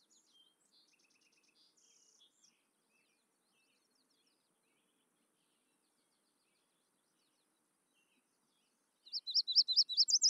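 A bird chirping: faint scattered high chirps in the first couple of seconds, then nothing until a loud run of quick, high, falling chirps, about eight a second, near the end.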